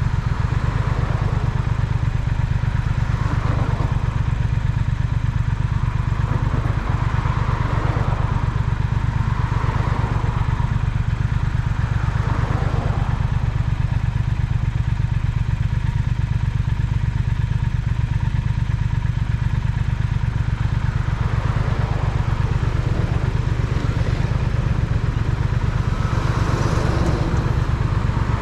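Triumph Speed Twin's parallel-twin engine running steadily with a low, even pulsing exhaust note, and a hiss of wind and traffic above it that swells and fades several times.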